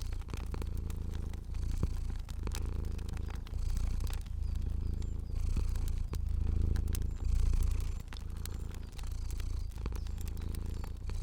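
Domestic cat purring steadily, swelling and easing with each breath about once every second or so, with a fire's sharp crackles popping here and there over it.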